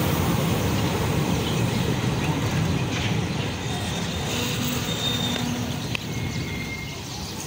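Indian Railways passenger coaches rolling past on the rails, a steady low rumble that fades away as the last coach goes by about four to six seconds in.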